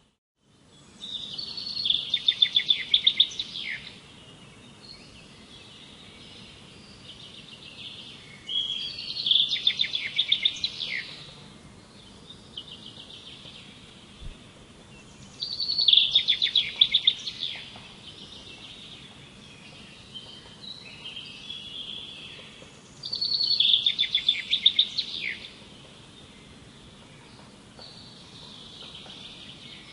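A songbird singing the same loud, rapid trilled phrase four times, about every seven seconds, with fainter chirps in between.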